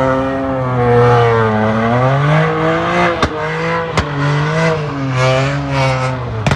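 Car engine revving, its pitch holding, climbing about two seconds in, then falling and wavering up and down. Two sharp cracks come midway.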